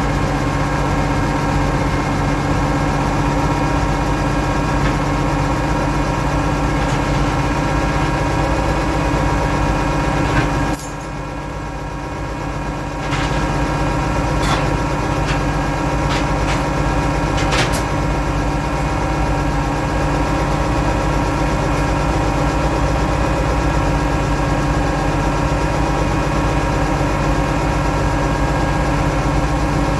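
Oliver 1650 tractor engine running steadily. It goes briefly quieter about eleven seconds in, and a few sharp clicks or clanks come over the next several seconds.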